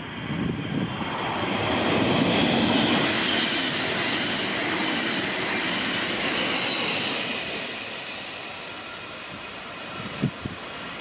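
A train passing along the line: wheel-on-rail noise and rushing air swell quickly about a second in, hold for several seconds, then fade away.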